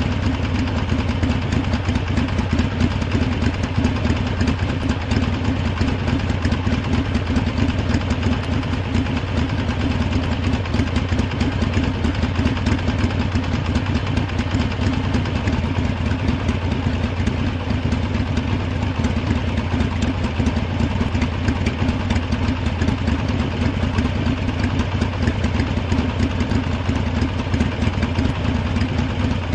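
Harley-Davidson motorcycle engine idling steadily, with no revving.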